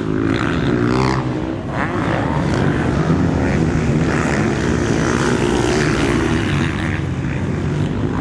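Motocross bike engines running on a race track, their engine notes wavering with the throttle.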